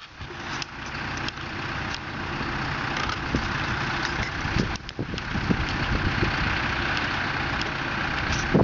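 A vehicle engine running steadily at low revs, with a few short clicks.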